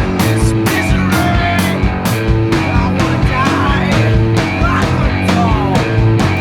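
Rock band playing: drum kit with cymbal-heavy strikes about twice a second under Fender and Rickenbacker basses.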